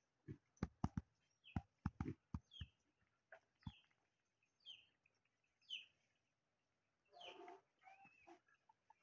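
Faint bird chirps: short falling peeps about once a second, with a run of light clicks in the first few seconds and a brief, fuller call about seven seconds in.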